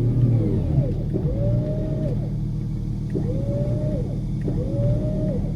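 Off-road 4x4 engine running under load with a steady low rumble, revved in four repeated bursts, each a whine that rises quickly, holds and then drops, as the vehicle struggles for grip on a muddy slope.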